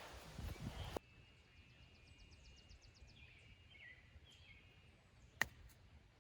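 Birds chirping, a quick ticking trill and then a few falling chirps, over quiet open-air background. About five seconds in comes a single sharp crack of a wooden-shafted golf club striking the ball. In the first second a loud, noisy rush cuts off abruptly.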